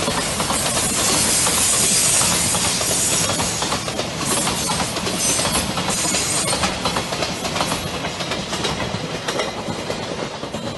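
Container freight train of flatcars rolling past close by, its wheels clicking and clacking over the rail joints over a steady rushing noise. The sound eases off near the end as the last wagons move away.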